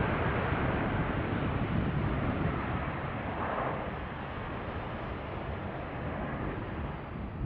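Jet airliner engines: a steady rumble and roar that slowly fades as the aircraft moves away.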